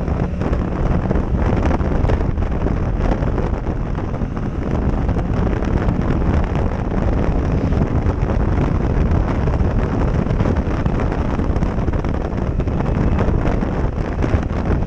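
Heavy wind buffeting on a helmet-mounted action camera's microphone while riding a motorcycle, with the engine running underneath.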